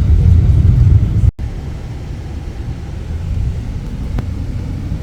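Loud, low vehicle rumble that cuts off abruptly about a second in, giving way to a quieter steady background noise.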